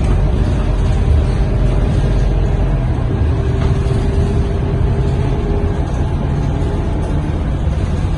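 Scania K230UB city bus's diesel engine and drivetrain running steadily, heard from inside the passenger cabin. A faint held whine joins in around the middle.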